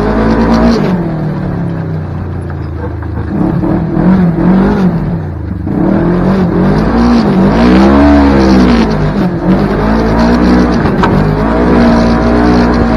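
Kawasaki Teryx KRX 1000's parallel-twin engine heard through an MBRP slip-on muffler while riding. The exhaust note rises and falls again and again as the throttle is opened and lifted, with a brief lift about five and a half seconds in and a steadier pull near the end.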